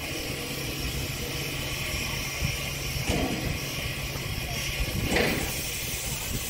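Nebraska Zephyr streamliner (CB&Q #9911A) standing at idle: a steady low hum under a constant hiss, with a brief louder burst about five seconds in.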